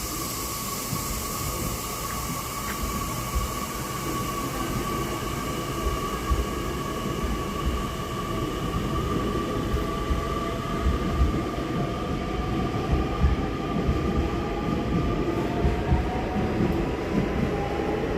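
Nishitetsu 3000 series electric train moving off, a steady electrical whine with fainter tones that creep up in pitch as it gathers speed. There is a hiss at first, and low wheel thuds grow louder toward the end.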